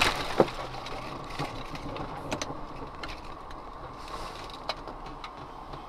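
Steady car engine and road noise recorded by a dashcam, with a few short clicks or knocks scattered through it.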